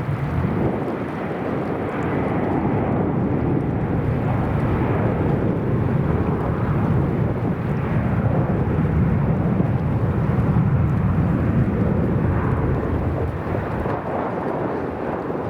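Airbus A330-200 jet engines at takeoff thrust, a loud, steady deep rumble with little high whine, swelling slightly partway through.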